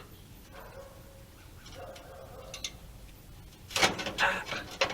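Light knocks and scraping of sheet metal being handled, then a loud metallic clatter and scrape near the end as the metal piece slips out of position.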